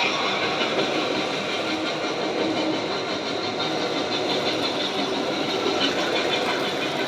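Steady train noise from a railway sound-effects record playing on a record player, mixed with the running of Tri-ang Hornby model locomotives on the track.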